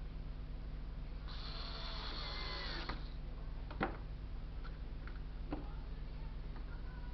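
Bench repair sounds while the thermopot's cut pump wire is being mended: a scraping hiss lasting about a second and a half starting about a second in, then a sharp click and a lighter one, over a steady electrical hum.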